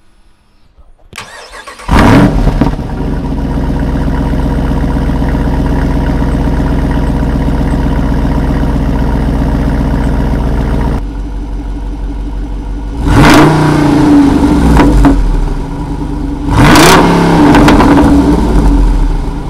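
Jeep Wrangler Rubicon 392's 6.4-litre HEMI V8 starting through its twin-tip exhaust: it cranks briefly, catches with a loud flare and holds a fast idle. About eleven seconds in it settles to a lower idle, then it is revved twice, each rev rising and falling back to idle.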